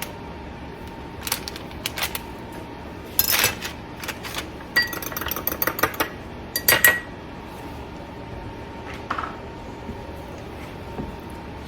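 Knife cutting slits across the top of a crescent-dough roll, its blade clicking and scraping against the pan beneath in short, scattered strokes.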